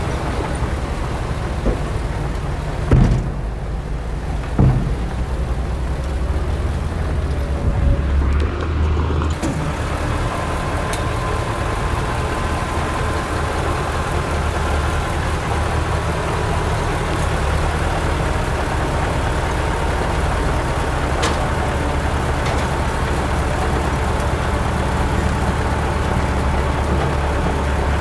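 Heavy diesel engine of earthmoving machinery running steadily with a low drone. Two sharp knocks come a few seconds in.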